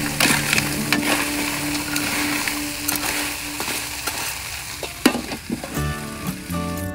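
Small whole crabs sizzling in hot oil and chili sauce in a large aluminium pan, stirred with a metal spatula that scrapes and clicks against the pan. A sharp clank comes about five seconds in as the lid goes onto the pan.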